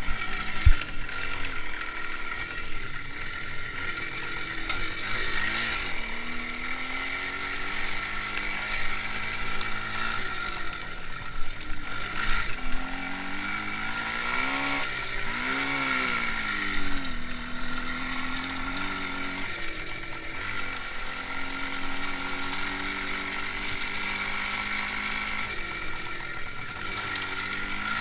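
IZh Jupiter 5 motorcycle's two-stroke twin-cylinder engine running on the move, its pitch rising and falling several times with throttle and gear changes, over a steady mechanical rattle. One sharp knock less than a second in.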